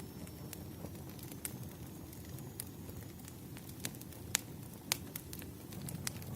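Campfire burning, with a steady low rumble of the flames and irregular sharp crackles and pops of the wood. The loudest snaps come about four and five seconds in.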